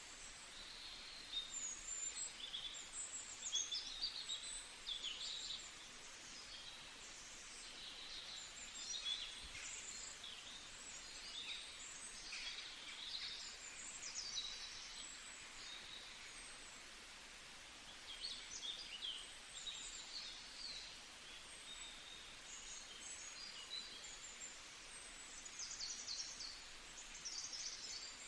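Several small songbirds chirping and trilling in quick, high-pitched phrases over a steady background hiss, busiest in the first few seconds and again near the end.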